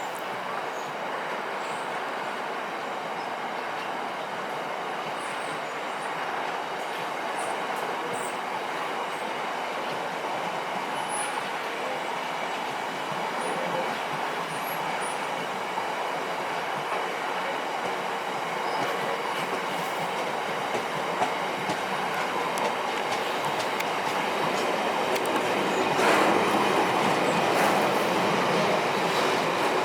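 Train rolling past on the rails: steady wheel-on-rail noise with scattered clicks, slowly growing louder and loudest over the last few seconds.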